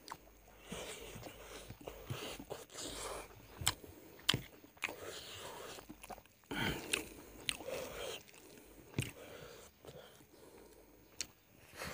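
Close-miked chewing and lip-smacking of a man eating chicken curry and rice, with sharp, wet mouth clicks at irregular intervals.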